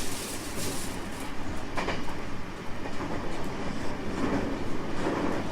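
Running noise of a 225 series 5000 electric train under way, heard from inside: a steady rumble of wheels on rail with a few clicks over rail joints.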